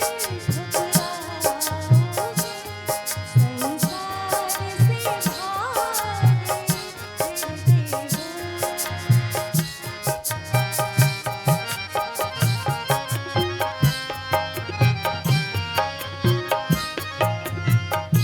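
Harmonium, tabla and dholak playing a Hindi film song: a woman's voice sings a drawn-out, wavering phrase over the first six seconds or so, then the harmonium carries the melody in held notes over a regular tabla and dholak beat.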